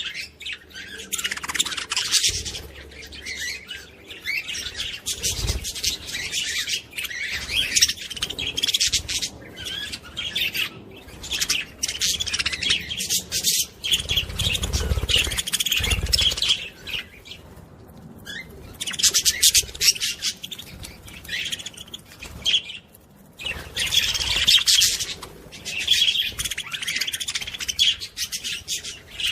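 Small pet parrots in a cage chattering and chirping busily in overlapping runs. Low thumps come now and then, around 5 seconds in and again in the middle.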